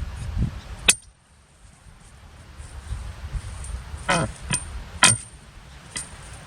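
A low engine rumble cuts off a second in with a sharp metallic strike. Two more sharp clanking strikes follow about three and four seconds later, the first ringing briefly: a metal garden tool hitting stony ground.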